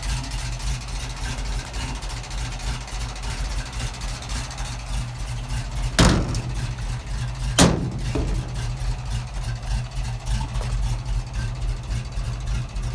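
Ford FE big-block V8 of a 1971 Ford F700 fire truck idling steadily. About halfway through come two sharp knocks a second and a half apart.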